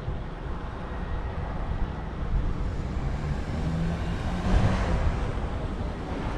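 City street traffic heard from a moving bicycle: a steady low rumble of road noise, with a motor vehicle passing close by about four to five seconds in.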